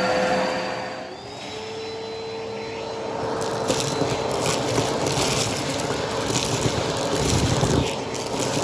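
Vacuum cleaner running with a steady motor whine. About a second in, the whine drops in pitch and the sound briefly gets quieter. From about three seconds in, debris crackles as it is sucked up.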